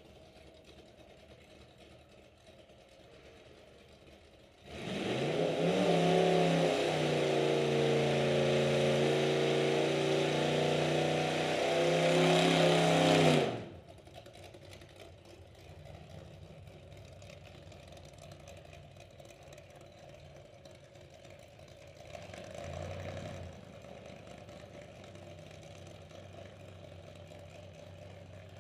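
Drag car engine running loud at high revs for about nine seconds, then cutting off suddenly. A quieter engine sound follows, with a brief blip of revs near the end.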